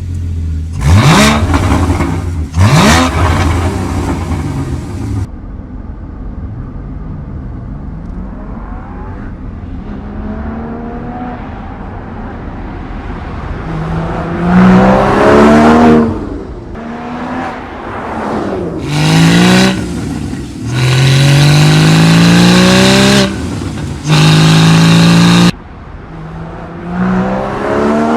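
Sports car engine revving and accelerating hard through the gears, its pitch climbing and then dropping back at each shift several times. The sound changes abruptly a few times, as between separate recordings.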